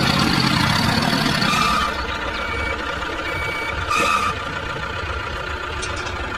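A vehicle engine hums steadily for the first two seconds, then drops quieter. Over the quieter part come four short, evenly pitched beeps like a reversing alarm.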